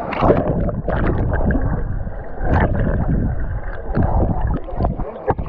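Water sloshing and gurgling right against an action camera's housing, heard as a muffled, irregular rumble with a few sharp knocks, as the camera moves through the water of a swimming pool.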